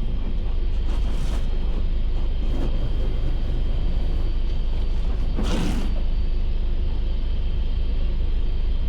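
Car wash equipment running: a steady low rumble with a thin high whine over a hiss, and a swish of spray about five and a half seconds in, with two fainter ones earlier.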